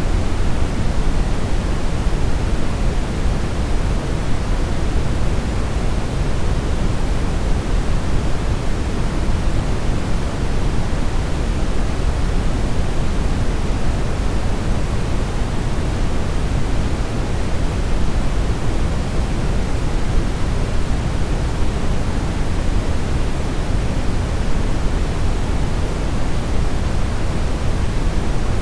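Steady brown noise: an even, deep rushing hiss, heaviest in the low end and thinning toward the top, with no change over time.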